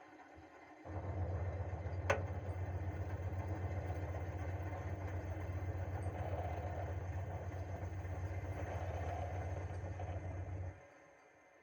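Chofu AE-2844PX air-conditioner outdoor unit running with a steady low hum. It cuts in suddenly about a second in, with a single sharp click a second later, and cuts off suddenly near the end.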